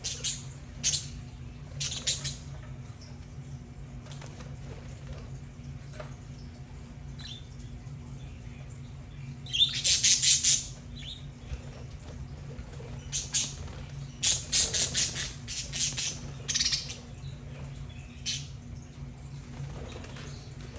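Budgerigars chirping and squawking in short scattered bursts, loudest about ten seconds in and busiest a few seconds later, over a steady low hum.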